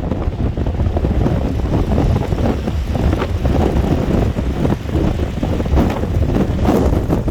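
Strong wind buffeting the microphone: a loud, steady low rumble with irregular gusts.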